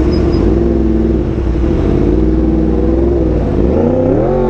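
Yamaha R1M's crossplane inline-four through an SC-Project exhaust, running at steady revs under way, then revving up sharply near the end and dropping back down.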